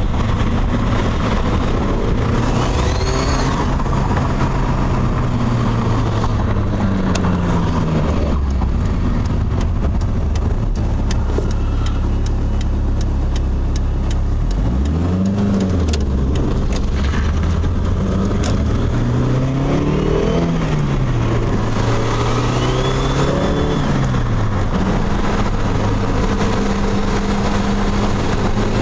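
Turbocharged Mitsubishi 4G63 inline-four with its revs climbing and falling several times. A higher whistle arcs up and back down a few times as the revs rise: the funny sound this engine makes getting into boost.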